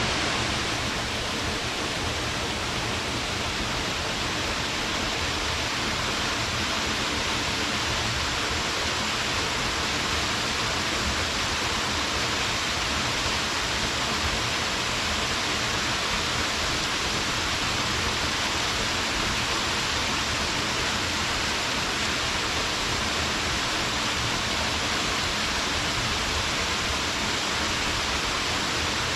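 Small mountain-stream waterfall: water falling and splashing in a steady, unbroken rush.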